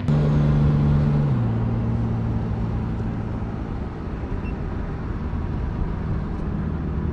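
Car engine running steadily at low revs. Its pitch steps down about a second in, then rises slightly near the end.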